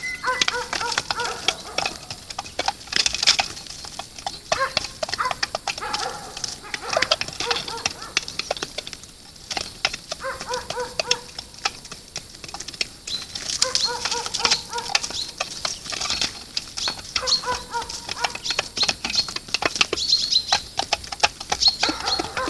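Animal calls: short pitched calls repeating every few seconds, over many small clicks and high chirping.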